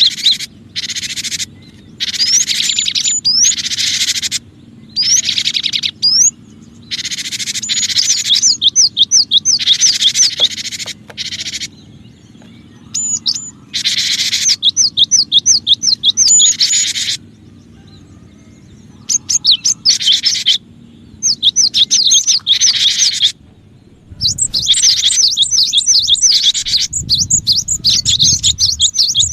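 Cinereous tit (gelatik batu) song played as a bird-trapping lure recording: loud phrases of quick, repeated high sweeping notes, broken by short pauses.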